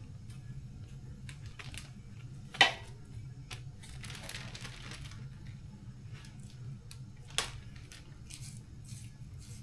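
Small metal parts and tools being handled on a workbench: scattered light clicks and clinks, with two sharper metallic clinks, one about a quarter of the way in and one about three quarters in, and a short rustle between them, over a steady low hum.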